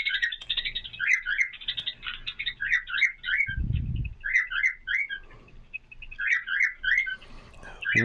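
Small caged birds chirping in quick clusters of short high notes, with a brief low rumble about halfway through.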